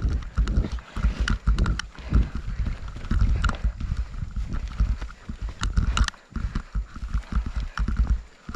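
Strong gusting wind buffeting the microphone: a heavy, uneven low rumble with irregular knocks and thumps.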